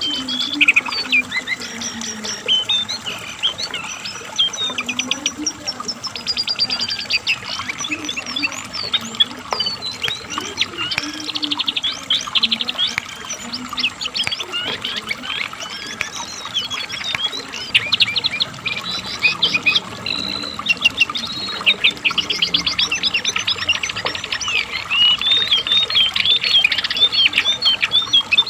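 Cingcoang (jongkangan coklat), a shortwing, singing non-stop: a fast, varied jumble of high trills and chirps.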